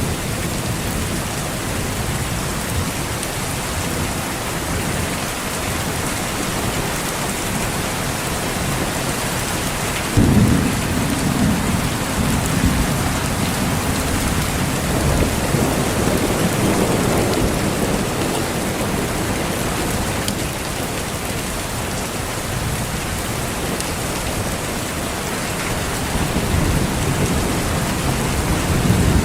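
Steady heavy rain hissing throughout. About ten seconds in, a sudden thunderclap breaks into a low rumble that rolls on for several seconds, and another low rumble swells near the end.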